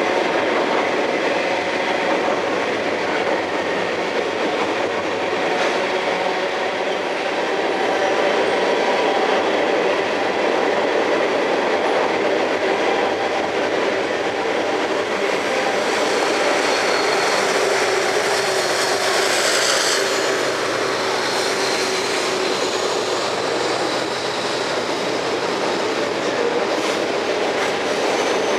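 Freight train cars rolling past with a steady rumble and clatter of steel wheels on rail, and a faint high wheel squeal around the middle.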